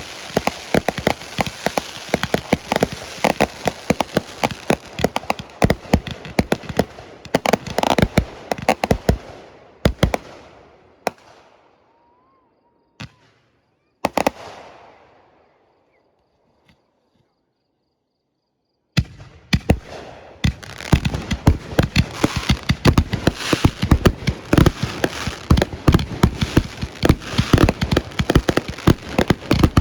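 Fireworks going off in a dense, rapid barrage of bangs and crackle. It thins out about ten seconds in to a few single bangs with echoing tails, falls completely silent for a few seconds, then another dense barrage starts abruptly.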